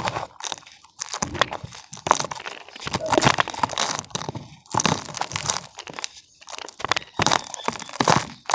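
Damp cement chunks crunching and crackling as they crumble, in several bursts of gritty cracks with short pauses between them.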